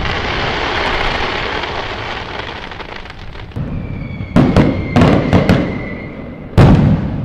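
Fireworks going off: the crackling hiss of a burst fading away, then a quick run of sharp bangs with a thin whistle alongside them, and a loud bang near the end.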